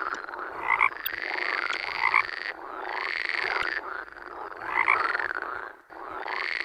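A dense chorus of animal calls that rise and fall, repeating throughout, over a steady high-pitched trill.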